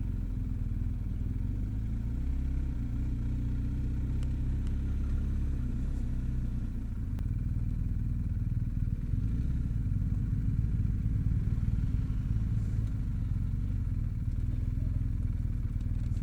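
Motorcycle engine running steadily while riding, the pitch holding nearly even with a brief slight dip about six and a half seconds in.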